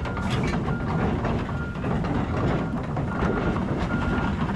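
Kobelco SK210 excavator tracking off a trailer: diesel engine running under load, steel tracks clanking, and a travel alarm beeping about once a second.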